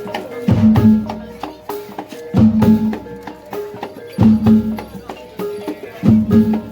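Live Javanese reog accompaniment music: drums and tuned gong-chime tones playing a looping percussive pattern that repeats about every two seconds.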